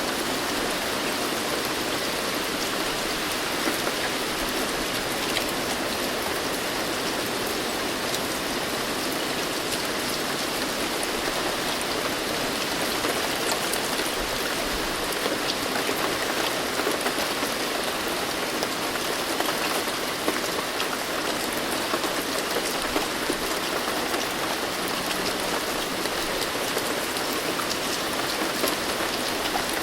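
Steady rain falling, a constant hiss of many drops with fine individual drop patters throughout.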